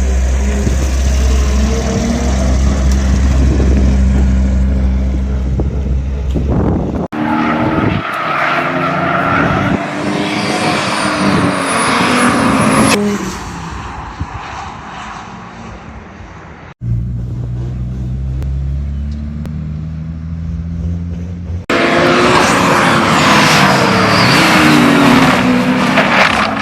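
Audi car engines heard in a run of short cuts. First an engine runs steadily at low revs. Then engine notes rise and fall as cars rev and drive past, fading away, followed by another steady low-rev stretch. Near the end a loud engine note swings up and down as a car is driven hard.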